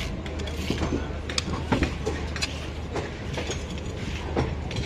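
Indian Railways express passenger train running on the track: a steady low rumble with irregular clacks and knocks from the wheels passing over rail joints.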